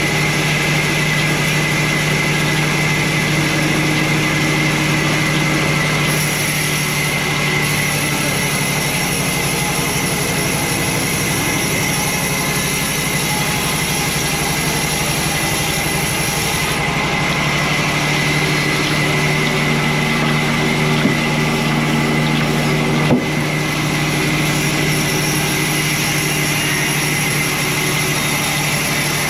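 Sawmill machinery running steadily: a constant motor hum with a steady high whine over it, and one sharp click near the end.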